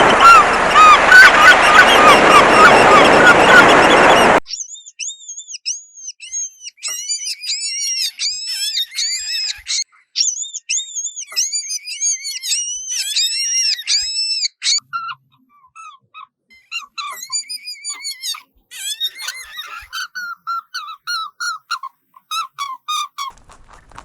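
Bird calling in rapid runs of short, high, arched chirps, with brief pauses between the runs. The first few seconds are a louder, dense chorus of chirps over a noisy background.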